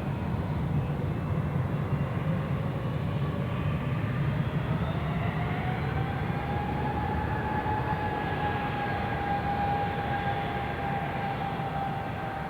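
Jet airliner engines running: a steady low rumble under a whine that rises slowly about four seconds in and then holds steady.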